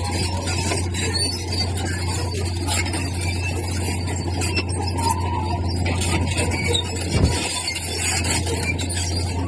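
Earthmoving machinery working: a steady low diesel drone with squeaking and scraping, and a single thump about seven seconds in.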